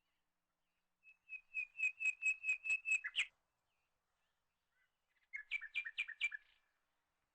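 A bird singing two phrases of quick repeated notes, about five a second: a run of about ten notes, then after a pause of about two seconds a shorter run of about five.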